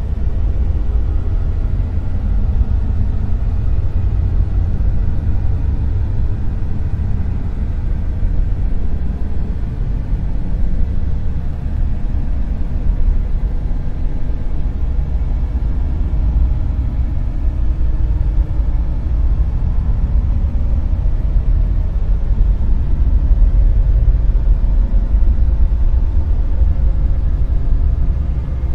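Dark noise: a steady, deep rumbling hiss, loudest in the low bass and fading off toward the treble, with only slight swells in level.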